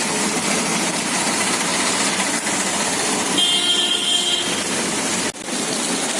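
Street traffic noise with a vehicle horn honking for about a second in the middle.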